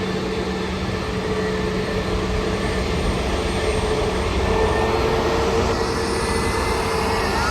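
Jet airliner engines running: a steady rumble with a held whine, growing a little louder about halfway through.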